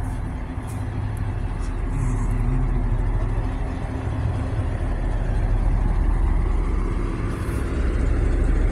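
Steady low engine rumble of a motor running at idle, with a faint steady hum on top.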